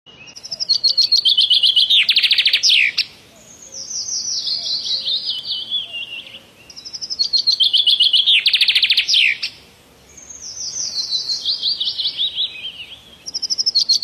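Bird song repeated as the same phrase three times, about every six and a half seconds: high stepped chirps that fall in pitch, a fast rattling trill, then a descending run of warbling notes.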